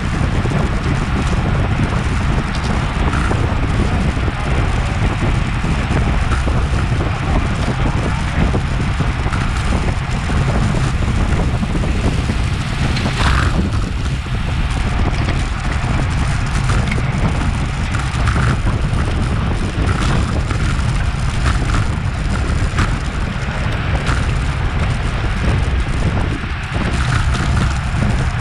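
Steady rush of wind on a bike-mounted action camera's microphone at race speed, mixed with the tyre and drivetrain noise of road bikes in the bunch, and a few faint clicks.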